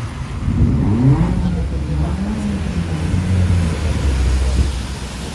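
A diesel bus engine accelerating close by, its pitch rising about a second in, then running on as a loud, low, steady drone.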